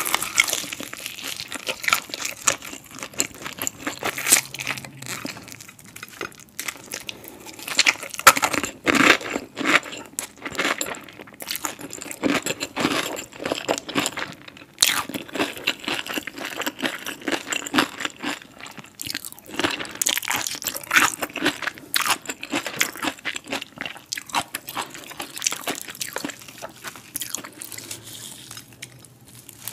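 Close-miked crunching and chewing of crispy breaded fried chicken: the crust crackles in quick irregular bursts with each bite and chew.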